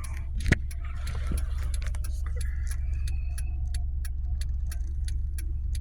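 Car interior noise, a steady low road and engine rumble, with the turn-signal flasher ticking evenly about three times a second. There is one sharp knock about half a second in.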